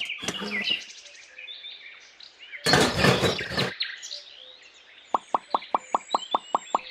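Birds chirping, with a short loud burst of noise about three seconds in, then a rapid, even run of about a dozen plops, around six a second, near the end.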